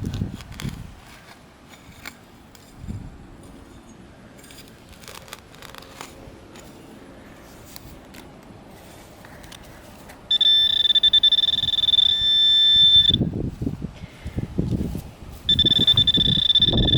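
Handheld metal-detecting pinpointer giving a steady high-pitched buzz for about three seconds, stopping, then buzzing again near the end: it is sounding on metal in the dig hole. Soft rustling and thumps of digging through grass and soil come between and under the second buzz.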